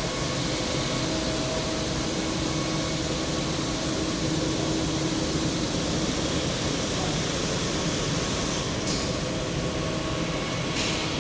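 EMC Flexy 1350 wide-belt sanding machine running steadily: a constant hiss with a low hum under it. The high hiss eases a little near the end.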